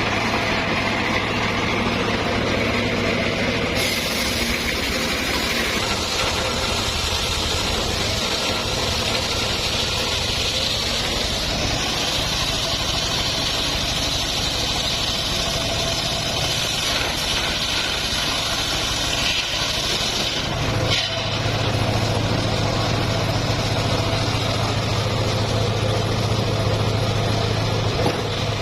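Engine of a homemade circular-saw sawmill running steadily with a low hum. The sound shifts about four seconds in, when a higher hiss joins it, and again about two-thirds through, after a short dip.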